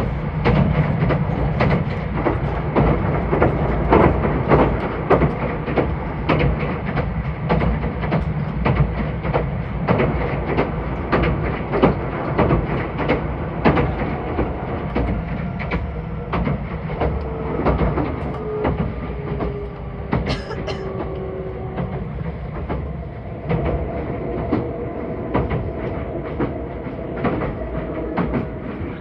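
Meitetsu 2000 series μSKY electric train running at speed, heard from inside the carriage: a steady rumble with the wheels clicking irregularly over the rail joints. A faint whine comes in over the second half.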